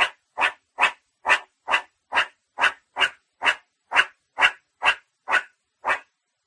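Dog barking over and over at a steady pace, about two short barks a second.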